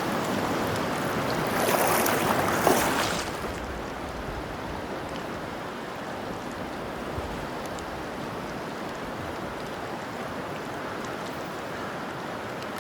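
Steady rush of flowing river water, louder and hissier for the first three seconds or so, then settling to an even wash.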